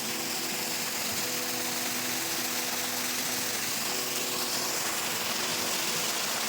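Steady rushing of a mountain stream or waterfall, with a steady hum of several held low tones underneath that shift a little now and then.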